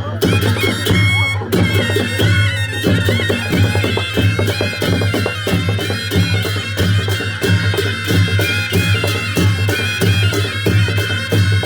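Nepali naumati panche baja band playing: a reedy shehnai melody held over a steady drum beat and rapid, even cymbal strikes.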